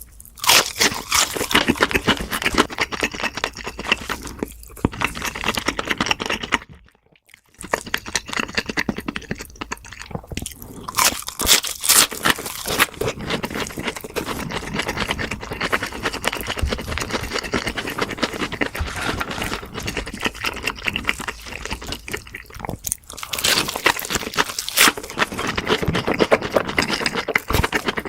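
Close-miked eating: crunching and chewing of crisp food, a dense run of crackly bites, broken by a brief silence about seven seconds in.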